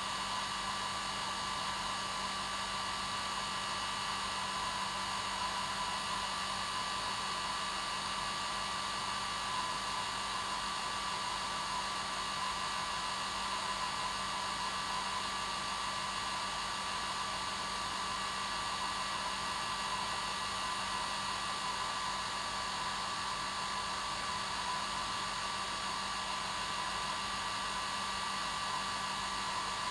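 Hair dryer running steadily: an even rushing blow with a constant motor hum and whine, unchanging throughout.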